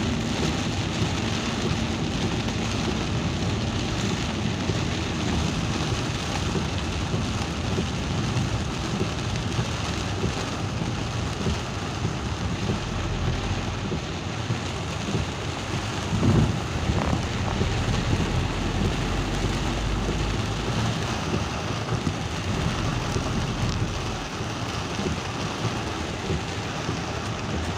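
Steady rain falling: a continuous hiss with a low rumble underneath, briefly louder about sixteen seconds in.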